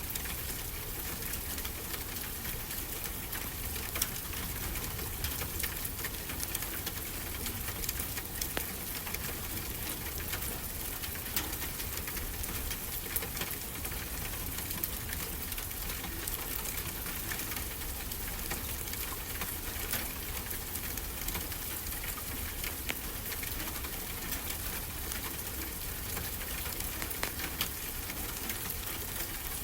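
Wood fire crackling, with many small sharp pops at irregular intervals over a steady hiss and low rumble.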